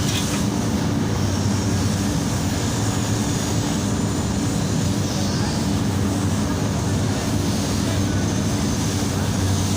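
A machine running steadily with a constant low drone and hum, unchanging throughout.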